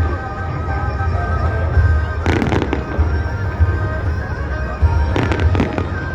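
Fireworks bursting in two clusters of sharp bangs and crackles about three seconds apart, over a steady low rumble. Music plays in the background.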